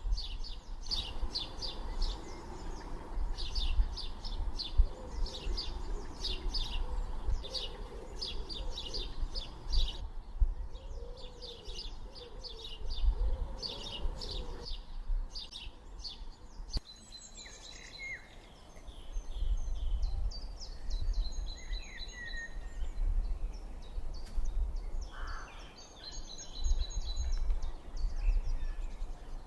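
Songbirds chirping in quick repeated series for about the first half, then giving varied sliding whistled notes, over a steady low rumble. The sound changes abruptly twice, like cuts between recordings.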